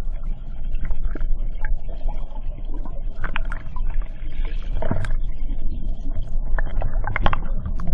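Waterfall water rushing and splashing close to the microphone, with scattered knocks and clicks throughout.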